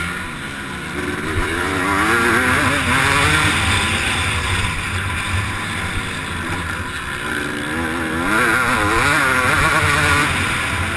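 MX1 motocross bike engine running hard, revving up and down as the rider accelerates and backs off, with two louder surges of throttle.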